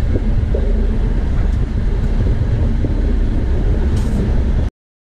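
Train running along the rails: a steady low rumble with a few light clicks, cutting off suddenly near the end.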